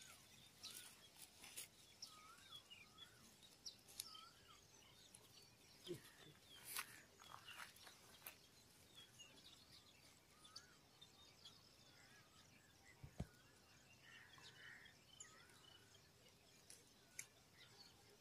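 Near silence: faint outdoor ambience with scattered small bird chirps and a few soft clicks.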